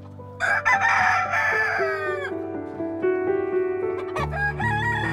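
Rooster crowing: one loud crow about half a second in, lasting nearly two seconds and ending on a falling note, then a second crow beginning near the end, over steady background music.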